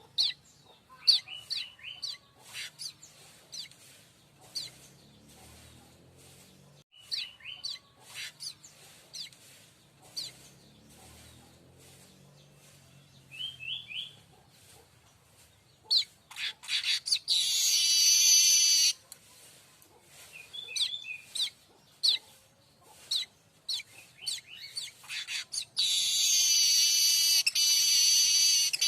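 Streaked weaver singing: a run of short, sharp chirps and ticks with a few quick trills, broken twice by a long, loud wheezy buzz, once midway and again near the end.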